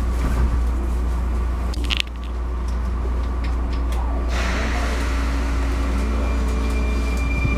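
Interior sound of a Sotetsu 9000 series electric train with a Hitachi IGBT-VVVF inverter: a steady low hum. There is a brief sharp sound about two seconds in, a hiss about four seconds in, and a steady high tone sets in about five seconds in.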